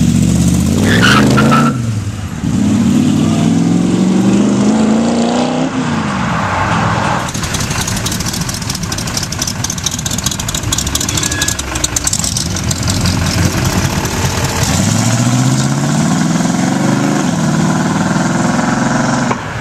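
American V8 cars pulling away one after another, each engine note rising as the car accelerates and shifting up in steps. In the middle a car's engine runs loud and rough close by, before the next one revs up and drives off.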